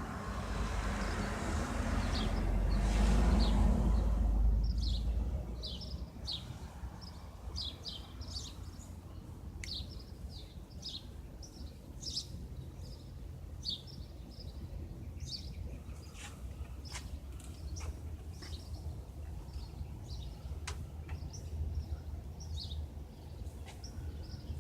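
Small birds chirping in short, repeated high calls, with a low rumble that swells and fades away over the first five seconds.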